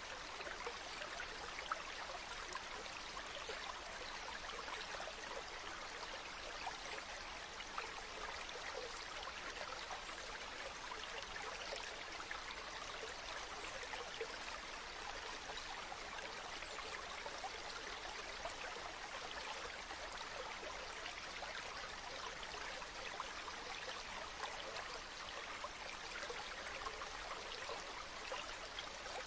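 Stream water flowing steadily, an even rush with fine splashing.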